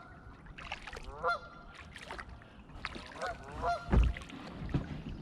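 Geese honking: clusters of short, repeated pitched calls. A low thump about four seconds in is the loudest sound.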